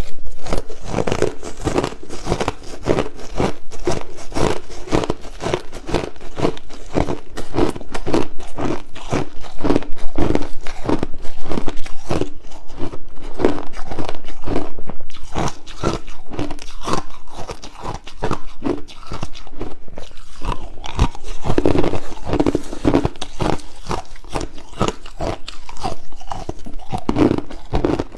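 Crushed ice being bitten and chewed, a rapid run of loud, sharp crunches several times a second, close to the microphone.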